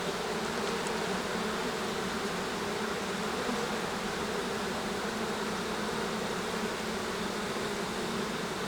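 Steady buzzing of a honey bee colony in an opened hive, a continuous drone with no breaks.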